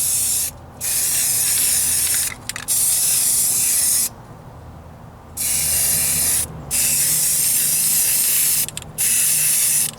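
Aerosol spray can of primer hissing in six bursts as the nozzle is pressed and released, with a longer break a little before the middle. The primer is being laid on heavy.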